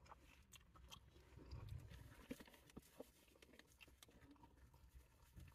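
Faint chewing of a mouthful of burger, with scattered soft mouth clicks.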